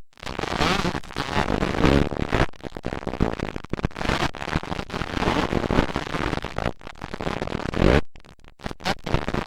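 Motocross dirt bike engines racing and revving, harsh and crackling, cutting out abruptly for a moment about eight seconds in.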